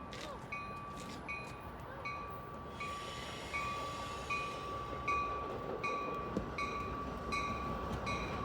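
Railroad grade-crossing bell ringing steadily, about three strikes every two seconds, over the rumble of a train that grows louder.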